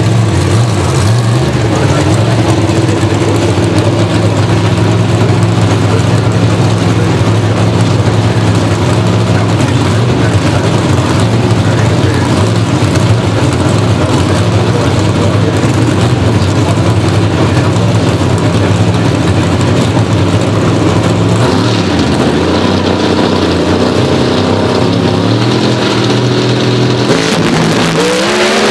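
Pro Stock drag cars' naturally aspirated V8 engines running loud and steady at high revs. The engine note shifts about three-quarters of the way through and rises in pitch near the end.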